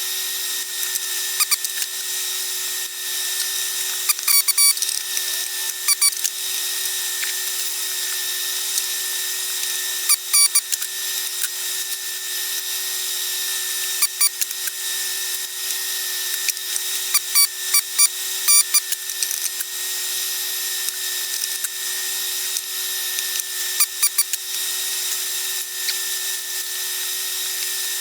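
Clusters of sharp clicks from hand tools working on a circuit board during recapping, over a steady hiss with two constant tones.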